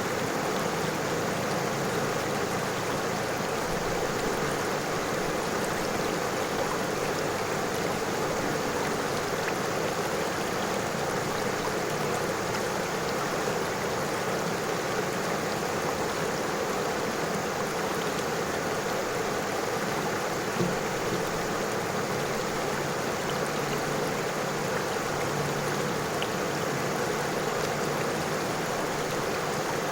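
River water flowing and burbling over stones, a steady rushing wash with no break.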